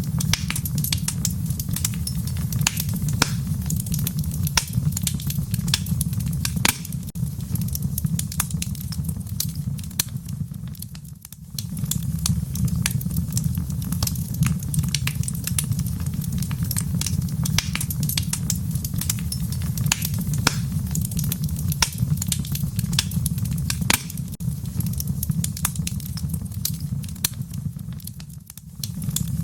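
Wood fire crackling in a fireplace: a steady low rumble of flame under a dense scatter of sharp pops and snaps. The sound dips briefly quieter twice, about a third of the way in and near the end.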